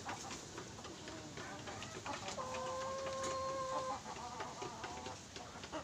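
Chickens clucking in short, scattered calls. About halfway through, a steady held tone lasts for about a second and a half.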